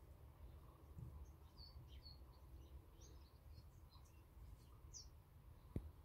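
Faint, scattered short chirps and calls of small garden songbirds over a low rumble, with a single sharp click near the end.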